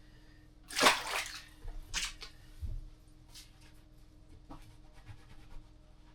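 Water splashing in an ice-fishing hole as a released fish is dropped back in: one louder splash about a second in, then a few smaller sloshes and drips.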